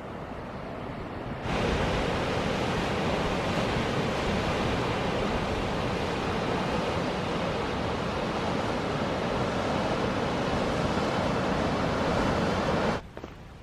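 Steady loud rush of moving water, like surf or falling water. It cuts in sharply about a second and a half in, holds even, and stops abruptly shortly before the end.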